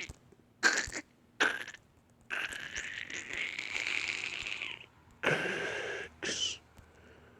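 A person making breathy blowing and hissing noises with the mouth, as a mock freezing breath: two short puffs, a long blow of about two and a half seconds, then two more short ones.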